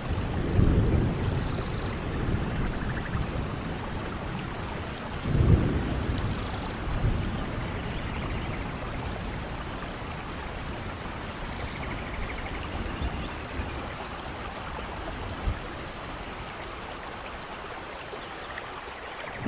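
Steady rain falling, with low rolls of thunder swelling near the start and again about five and a half seconds in.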